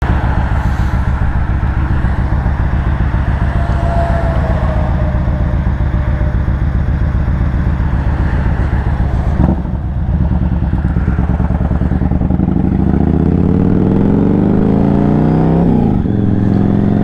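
2008 Yamaha Raider's 1854 cc air-cooled V-twin running as the bike is ridden, with a short break in the sound about nine and a half seconds in. From about twelve seconds the engine pitch climbs as it accelerates, then drops and climbs again near the end at a gear change.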